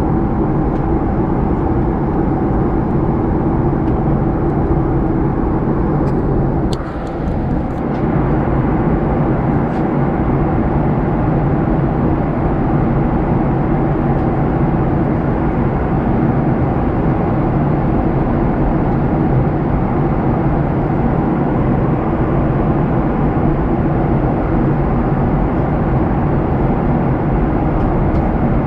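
Steady drone of a Boeing 737-900ER's passenger cabin in flight, the CFM56 turbofans and rushing airflow making a constant low hum, heard as the airliner prepares for landing. About seven seconds in it dips briefly, with a few faint clicks.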